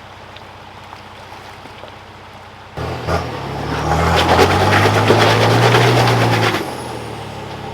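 A steady low rush, then about three seconds in an off-road vehicle's engine comes in loudly under load, its pitch rising a little, and eases off again after about four seconds.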